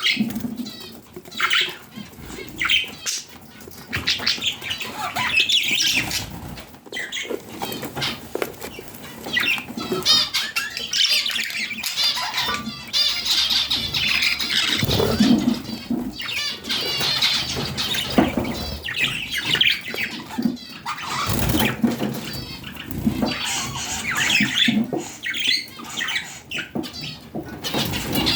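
Budgerigars chattering and warbling with many quick, overlapping chirps, and occasional wing flapping.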